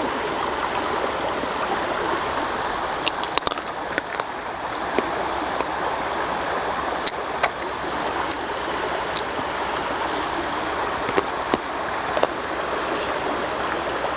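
Stream water flowing steadily over rock, with scattered short sharp clinks and clicks, several of them bunched together about three seconds in.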